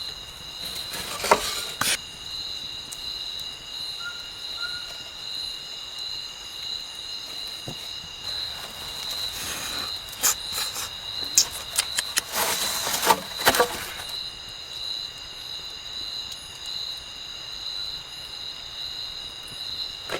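Insects chirring in a steady, high, unbroken chorus. Brief bursts of clicking and rustling come in twice, about a second in and again about two-thirds of the way through.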